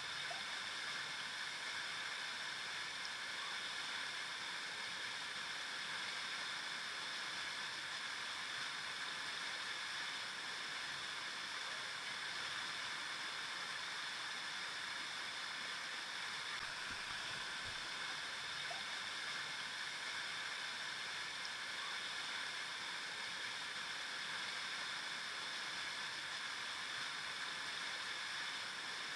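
River water flowing over rocks in a steady, even rush with no change in level.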